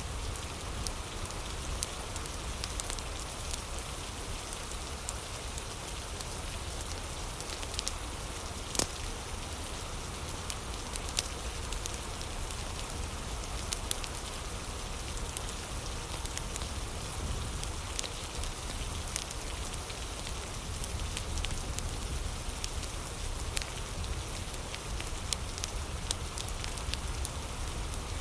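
Steady rain hissing, mixed with a crackling wood fire in a fireplace whose sharp pops come at irregular moments, the loudest about nine seconds in.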